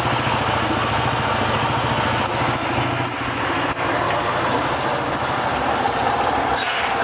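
Honda CG Titan 150's single-cylinder four-stroke engine idling steadily through its newly adapted exhaust, an even, deep putter.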